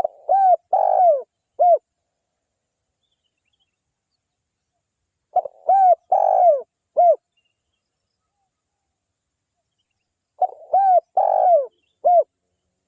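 Spotted dove (tekukur) cooing: three identical phrases about five seconds apart, each a quick run of four coo notes in which the third note is the longest.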